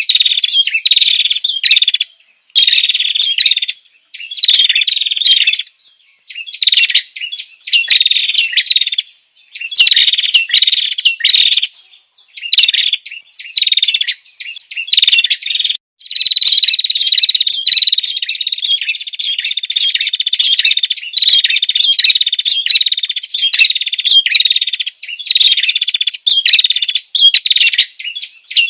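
Recorded small songbird chirping in rapid, high phrases a second or two long with short gaps between them, and one longer unbroken run of chirps about halfway through.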